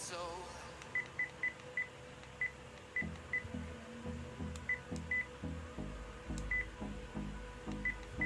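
Short high electronic key beeps from a Sony ICD-PX470 voice recorder, about a dozen at uneven intervals as its buttons are pressed to step through the menu. Background music with a steady low beat comes in about three seconds in.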